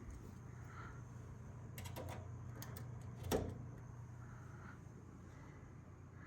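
A few light clicks about two seconds in and one sharper click or knock a little later, over a steady low hum.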